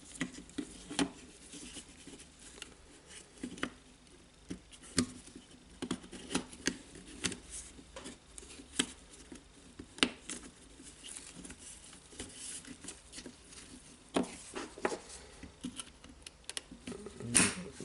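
Scattered light clicks and taps, irregular and a second or so apart, from small grinder parts and the plastic switch button being handled and fitted into the housing.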